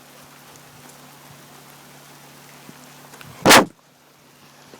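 Steady rain falling in a thunderstorm, an even soft hiss, with one loud sudden knock about three and a half seconds in.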